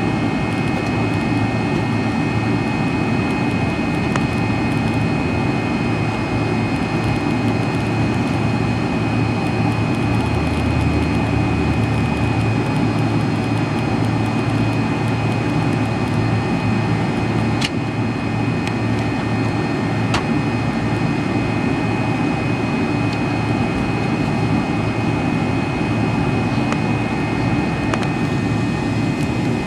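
Rear-mounted Pratt & Whitney JT8D turbofans of an MD-83 running steadily at low power before takeoff, heard from inside the rear cabin as a constant rush with a steady high whine.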